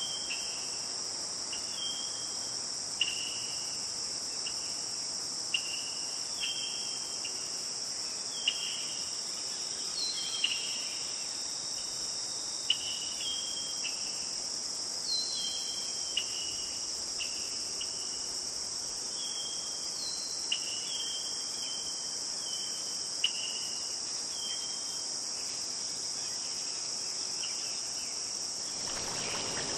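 Steady, high-pitched chorus of insects such as crickets, with short chirps repeating about once a second at a lower pitch and a few sharp clicks. A rushing noise sets in near the end.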